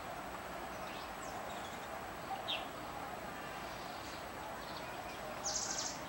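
Songbirds chirping over a steady outdoor background hiss: a short falling chirp about halfway through and a quick run of high chirps near the end.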